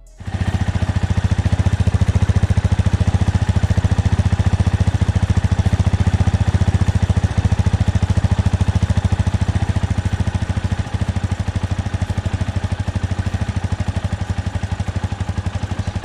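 Tractor engine running steadily with a fast, even putter, starting abruptly and cutting off abruptly about sixteen seconds later.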